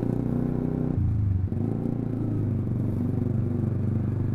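Motorcycle fitted with a Proliner T1R short aftermarket exhaust running steadily while being ridden, its engine note stepping up slightly about a second in.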